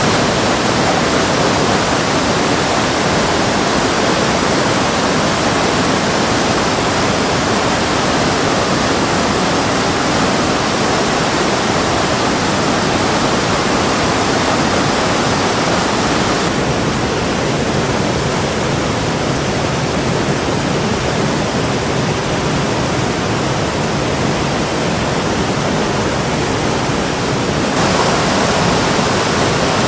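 Rushing water of a forest stream or waterfall, a steady loud hiss. The sound turns duller a little over halfway through and brightens again near the end.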